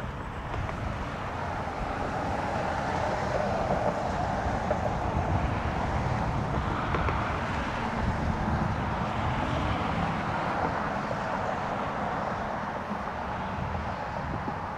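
Jet airliner engine noise swelling over several seconds and then easing off, mixed with low wind rumble on the microphone.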